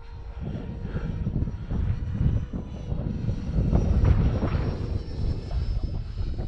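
Arrows F86 Sabre RC jet's 64mm electric ducted fan whining faintly in flight, under heavy gusty wind buffeting the microphone with an uneven low rumble.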